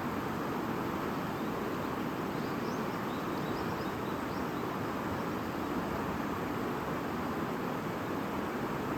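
Stream babbling in a steady rush, with a few faint bird chirps a couple of seconds in.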